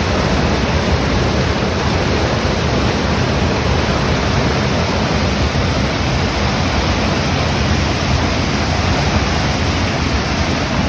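Loud, steady rushing of water, an even unbroken roar with no separate drops, knocks or engine note.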